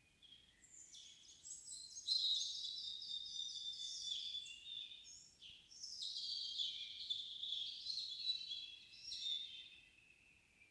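A songbird singing in a quiet evening forest: two long, fast phrases of packed high twittering notes, each several seconds long, with a brief break about halfway.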